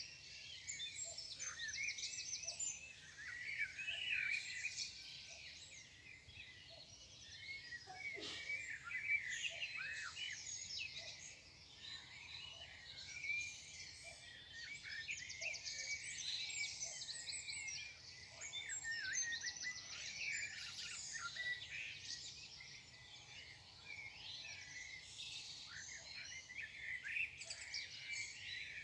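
Morning chorus of several songbirds singing together: a dense, unbroken mix of high chirps, quick trills and rapid runs of notes.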